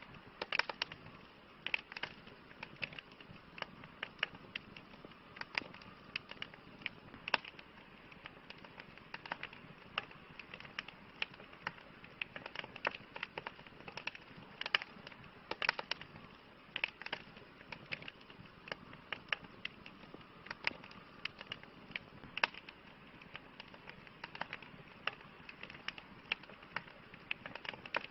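Wood fire crackling: sharp pops and snaps at irregular intervals, several a second, over a steady soft hiss of burning.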